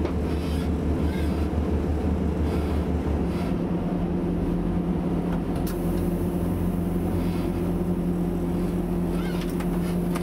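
Inside a Class 175 diesel multiple unit under way: steady diesel engine and running noise. About three seconds in, the engine note changes from a low hum to a higher steady tone.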